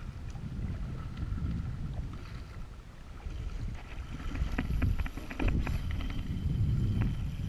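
Wind buffeting the microphone on a kayak at sea, with water sloshing and a run of short knocks and splashes around the middle.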